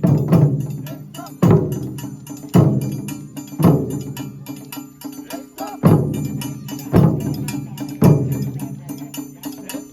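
Japanese taiko drums. A few quick strikes at the start, then single heavy beats about once a second, each ringing out low. There is one longer pause about halfway through.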